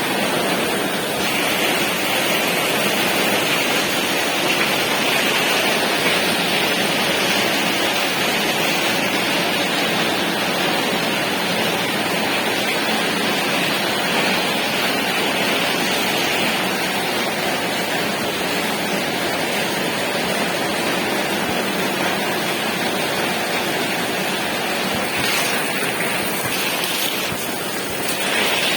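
Heavy rain driven by strong wind: a steady, dense hiss of downpour.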